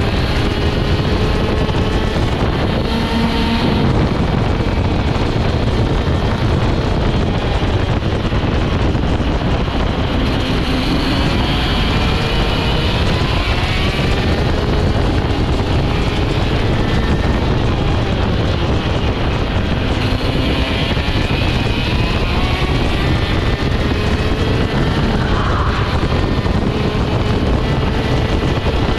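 Vortex ROK GP 125 cc two-stroke kart engine at full racing effort, its pitch rising and falling again and again as it revs up and backs off. Wind rushes over the on-board microphone.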